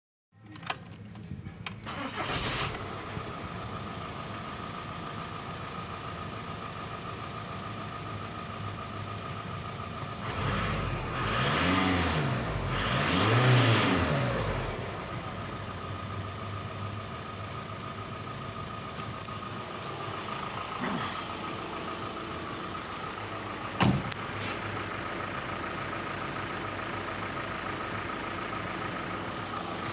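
VW Jetta engine starting up and settling into a steady idle. It is revved twice, rising and falling in pitch, about ten to fifteen seconds in, and a single sharp click sounds about a third of the way from the end.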